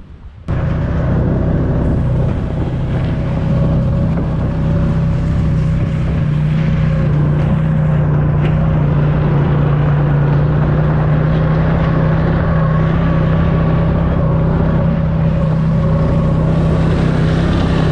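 Snowmobile engine running steadily under way, a loud, even drone that cuts in abruptly about half a second in.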